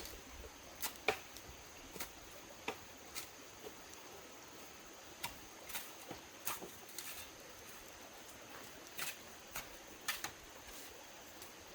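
Irregular light clicks and taps, a dozen or so scattered unevenly, over a faint steady background hiss.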